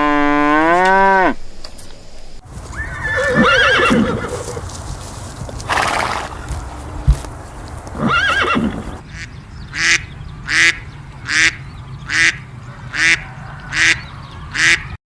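A run of farm animal calls: a cow's moo dies away in the first second or so, then a horse whinnies twice with a snort between, and from about halfway on a series of about eight short calls repeats at an even pace.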